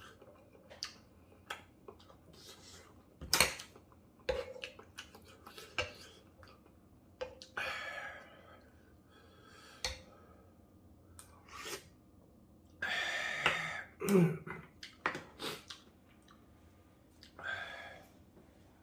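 Eating utensils clicking and knocking against dishes during a ramen meal: a long run of separate sharp clicks, with two longer noisy stretches about eight and thirteen seconds in.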